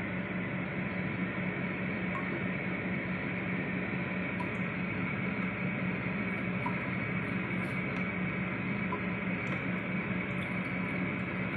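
Electric immersion water heater heating water, giving a steady hiss and rumble with a constant low hum and a few faint ticks.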